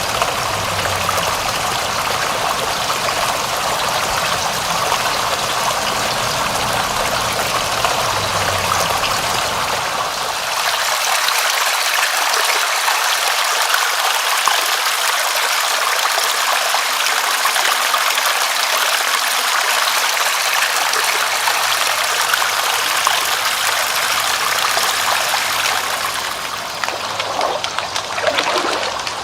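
Steady rush of running water, like a flowing stream. The low rumble under it drops away about ten seconds in, and there are a few short gurgles near the end.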